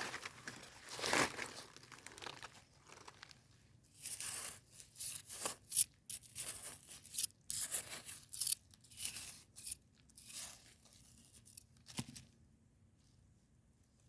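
Irregular rustling, crinkling and tearing noises in uneven bursts, stopping about twelve seconds in.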